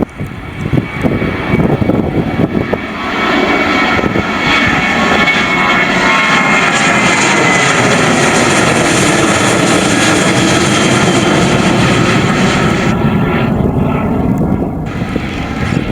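Boeing 737-700 airliner's CFM56-7B turbofan engines at takeoff power as the jet passes, the roar swelling about three seconds in, with a high whine that slides down in pitch. The noise falls away sharply near the end.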